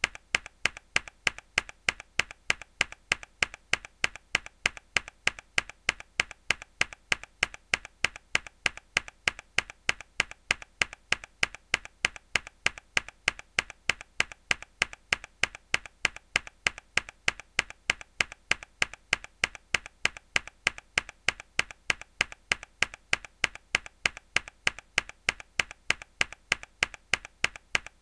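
A single hard mechanical-keyboard key press, looped: the same sharp click repeating evenly, about three to four times a second, each identical to the last.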